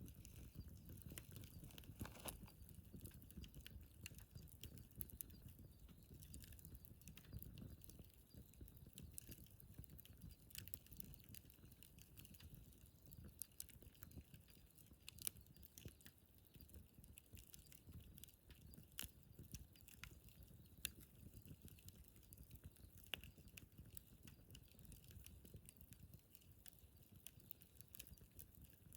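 Wood fire in a fire pit crackling softly in its middle-to-late stage of burning: sparse, irregular sharp pops and ticks over a faint low rumble.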